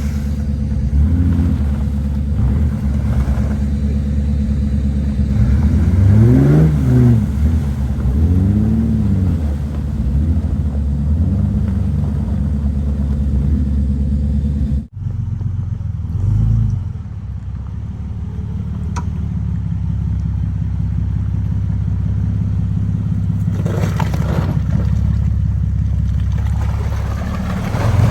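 Jeep Grand Cherokee WJ engine running under load while crawling a trail, revving up and back down twice, about six and nine seconds in. The sound breaks off abruptly about halfway through and resumes at a steady run.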